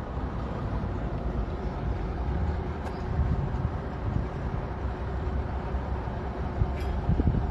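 Engines of heavy equipment running steadily, a continuous low rumble, with two faint ticks.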